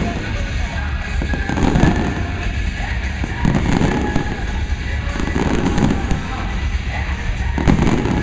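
Fireworks shells bursting one after another with booms and crackling, over music played along with the show.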